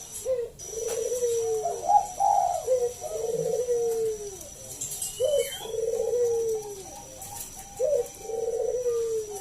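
Zebra dove (Bangkok-bred perkutut) singing: about four phrases of rapid, trilled cooing, each a second or so long and a couple of seconds apart.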